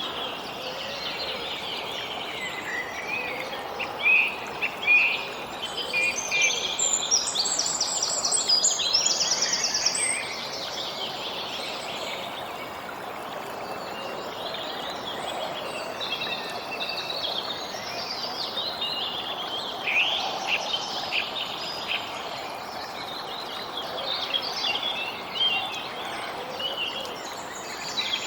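Several songbirds chirping and singing over a steady background hiss, with a fast high trill about seven to nine seconds in.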